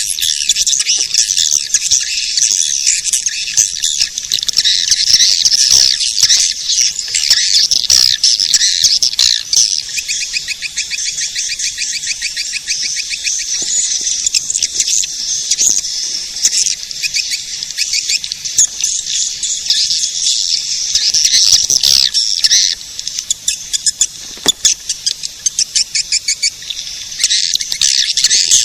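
Recorded swiftlet calls: a dense, continuous twittering of many swiftlets with fast buzzy trills, a lure track played to draw swiftlets into a nesting house.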